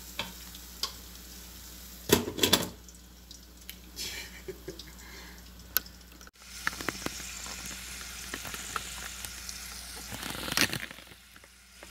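Food frying: beef steaks sizzling in a frying pan, with a few loud knocks of pan and utensil about two seconds in. From about halfway on, potato chips frying in pork lard, a steady sizzle with scattered crackles.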